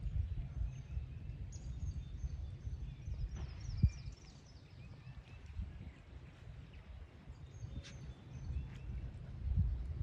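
Purple martins chirping in short, high calls, a cluster of them in the first few seconds and more around eight seconds in, over wind rumbling on the microphone. A single low thump comes just before four seconds.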